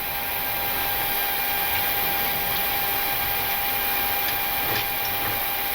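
Steady flight-deck noise of a Boeing 737-800 taxiing on idling engines: an even rushing hiss from engines and air conditioning with a steady whine through it, and a small click near the end.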